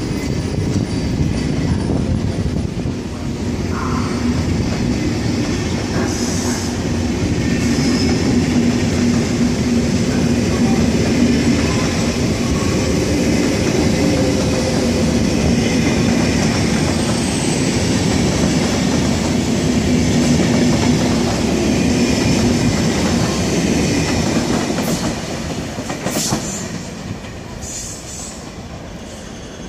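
A train running through the station: loud and steady for most of the time with a low hum under the rail noise, dying away over the last few seconds.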